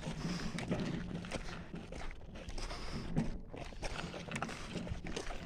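Footsteps walking through dry scrub and brush, with irregular rustles and snaps underfoot.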